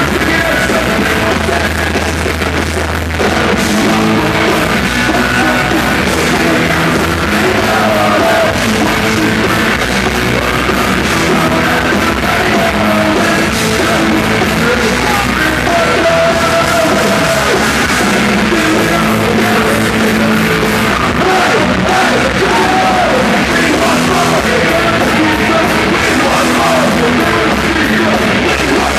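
Live hard rock band playing loudly, with singing.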